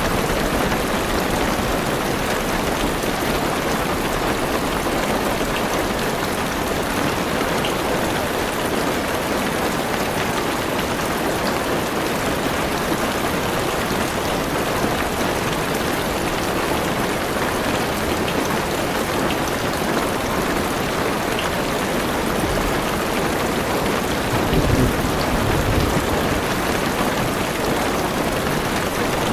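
Heavy rain pattering steadily on a car's roof and windows, heard from inside the car, with a brief low rumble of distant thunder near the end.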